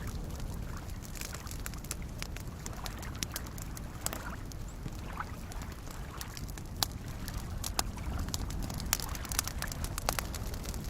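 Wood campfire crackling, with scattered sharp pops that are loudest in the second half, over soft lake waves lapping steadily underneath.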